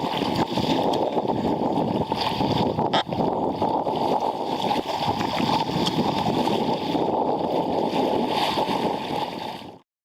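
Wind rushing over the microphone together with water rushing and splashing along the hull of a sea kayak sailing fast through chop, with a single sharp knock about three seconds in. The sound cuts off abruptly just before the end.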